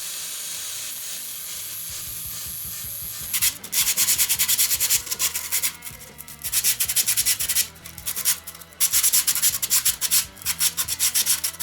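Sandpaper being rubbed over the rear-suspension linkage bushings to clean them up before greasing. A steady hiss for the first few seconds, then fast back-and-forth sanding strokes in bursts with short pauses.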